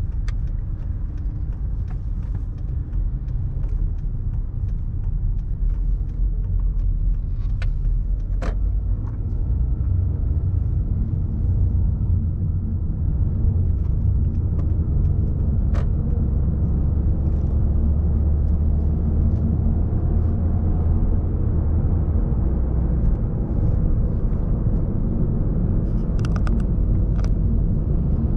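City street traffic: a steady low rumble of passing cars, with a few short clicks scattered through it.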